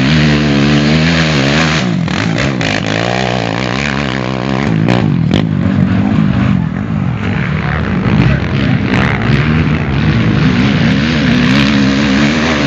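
Off-road motorcycle engine revving hard, its pitch rising and falling again and again as the throttle is worked.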